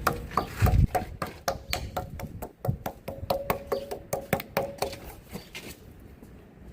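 A rapid, irregular run of light taps and knocks from a grease cartridge being handled and opened, thinning out near the end.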